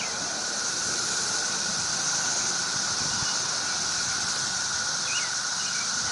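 Steady, continuous high-pitched buzz of a chorus of cicadas, with a few faint short chirps about five seconds in.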